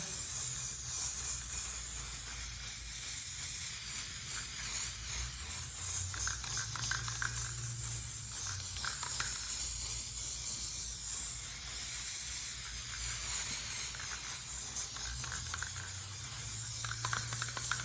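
Aerosol can of clear matte top coat spraying in a long steady hiss as a second coat goes onto a canvas.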